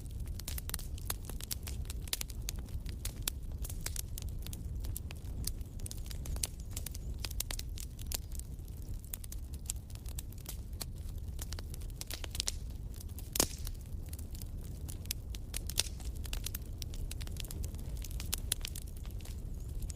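Wood fire in a fireplace crackling: many small irregular pops over a low steady rumble, with one louder pop about thirteen seconds in.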